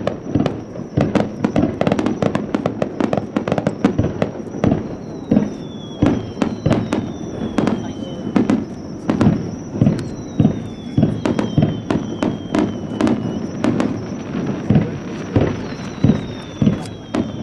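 Fireworks display: a continuous, rapid barrage of aerial shell bursts and crackling reports, several a second, with high whistling tones falling in pitch three times.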